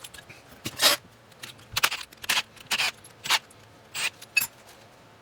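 About seven sharp metallic taps, a hammer striking transfer punches to mark hole positions through a cast-iron mounting plate onto the milling machine.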